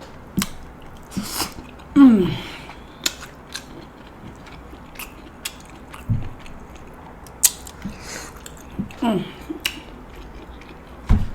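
Close-up chewing of tender steamed king crab meat: wet, irregular mouth clicks and smacks. Twice, at about 2 s and 9 s, a falling 'mmm' hum of enjoyment.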